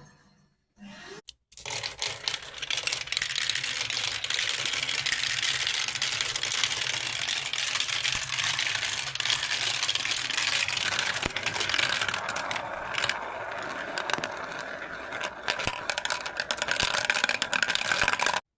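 Dense, continuous clattering and rattling of small hard objects, with many quick clicks and some scraping. It starts after a brief silence.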